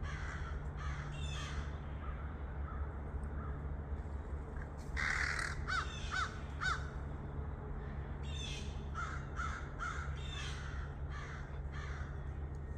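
A group of American crows cawing harshly in repeated bursts while mobbing a barred owl. The calls come in bunches, loudest about five seconds in, with a fast run of caws after the middle, over a steady low hum.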